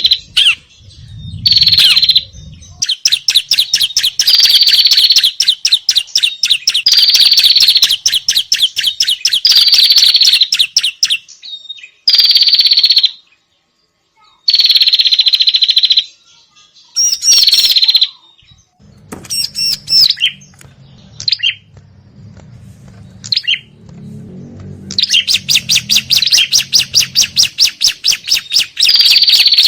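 Prinias (prenjak and ciblek) giving agitated scolding calls: fast runs of sharp, high chirps in bursts of a few seconds, broken by short pauses. This is the noisy alarm chatter used as a lure for small birds.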